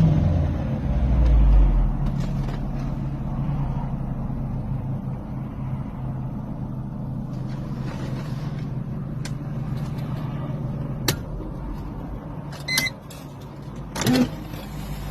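Mercedes-Benz M271 four-cylinder engine's revs dropping back over the first couple of seconds, then idling steadily. A click, a short high tone and a brief knock come near the end.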